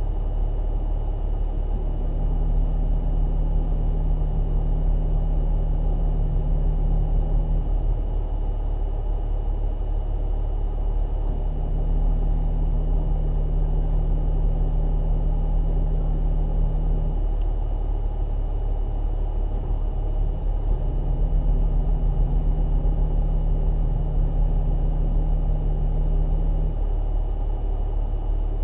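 A 4x4's engine idling steadily, heard from inside the cab. A low hum comes and goes three times over the idle, each time for about five seconds.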